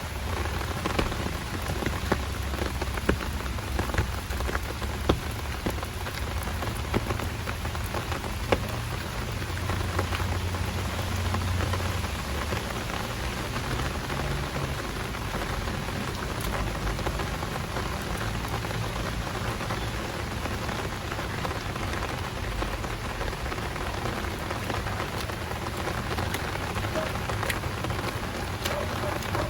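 Heavy rain falling steadily, with sharp ticks of single drops striking close by, several of them loud in the first few seconds. A low rumble runs underneath.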